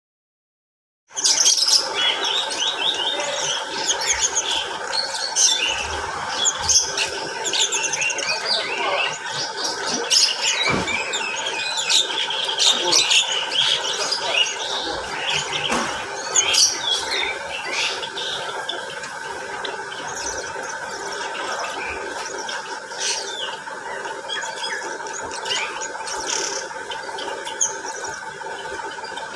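A flock of mixed cage birds in an aviary, lovebirds among them, calling all at once in a dense, overlapping chatter of short high calls, starting about a second in.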